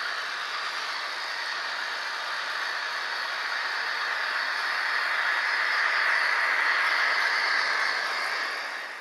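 HO scale model train rolling along the track, with a steady rattle of wheels on rail and a motor whir. It grows louder, then fades away near the end as it passes.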